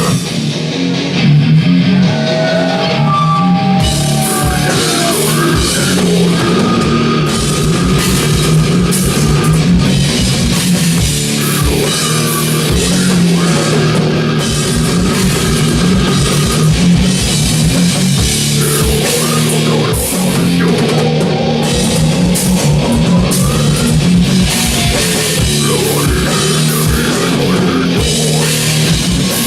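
Heavy metal band playing live: distorted electric guitars over a drum kit with dense, rapid drumming, loud and steady.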